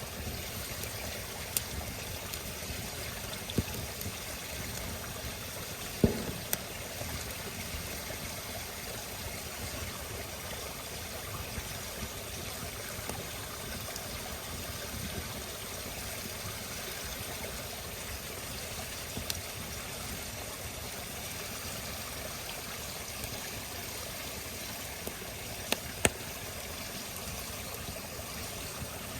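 Campfire burning: a steady hiss of burning wood with scattered sharp crackling pops, the loudest about six seconds in and two close together near the end.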